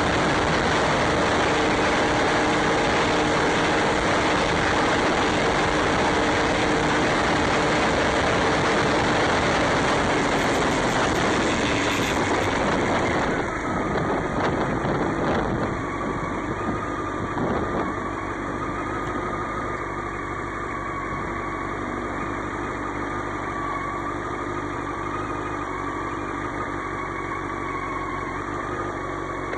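Motorcycle on the move, with a loud wind rush on the microphone that eases about 13 seconds in, leaving a steadier, quieter engine note.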